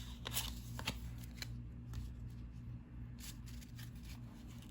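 Cardboard trading cards (1990-91 NBA Hoops basketball cards) being flipped and slid through the hands, with a few short, sharp flicks scattered through.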